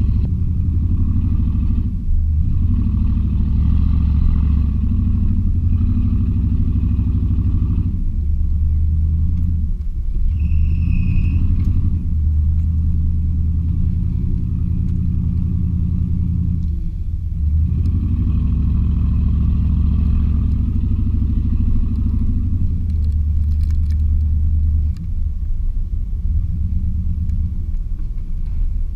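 Chevy 350 V8 in a 1986 K20 pickup running while driving, a deep steady drone that dips briefly several times as the throttle eases and comes back on. A short high-pitched tone sounds about ten seconds in.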